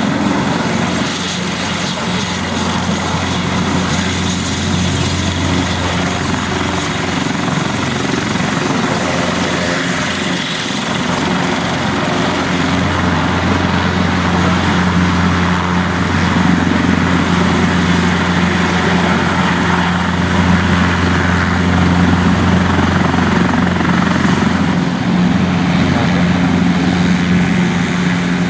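Military helicopter's turbine engines and rotor running steadily, a constant low hum over rushing noise that grows slightly louder about halfway through.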